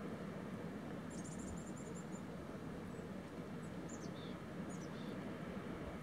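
Steady low outdoor rush at a lakeshore, with a small bird's high chirps over it: a quick run of about eight notes around a second in, then a few short falling chirps later on.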